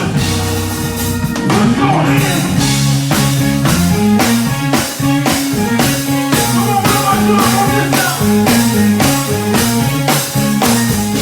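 Rock music: a drum kit keeps a steady beat of evenly spaced hits under held bass notes and guitar that change pitch in steps.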